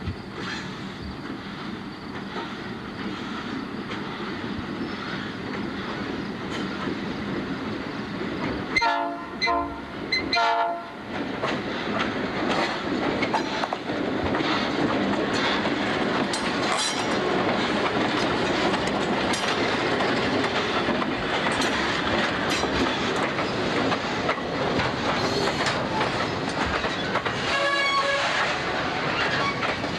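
Diesel freight train led by EMD F-unit locomotives: the horn sounds two blasts about nine and ten and a half seconds in. The locomotives and the clickety-clack of wheels over rail joints then grow louder and carry on steadily as the train goes by.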